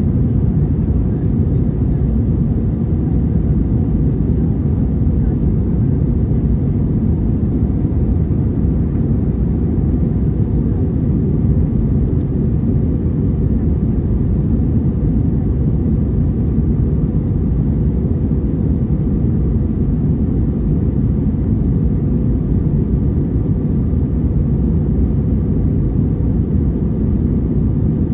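Steady low rumble of an Airbus A321's engines and airflow heard inside the passenger cabin, unchanging throughout.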